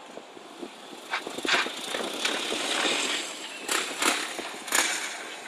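Police motorcycle engine running, with several short sharp knocks over the noise.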